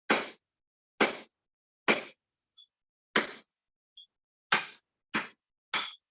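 Hand-hammer blows driving a cutter into a steel bar on the anvil to cut a piece off. There are seven strikes, roughly a second apart, each with a short metallic ring, and two light tinks between them.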